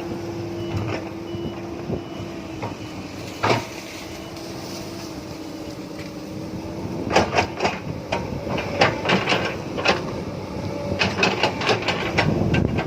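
Excavator's diesel engine running steadily. From about halfway through come a series of sharp clanks and knocks as it works loading a dump truck.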